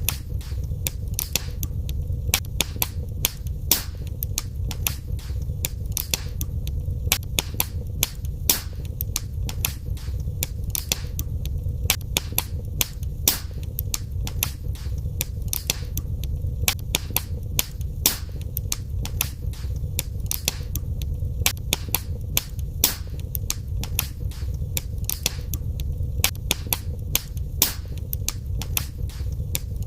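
Wood fire burning in a fireplace: a steady low rumble of the flames with frequent sharp crackles and pops at irregular intervals, several a second.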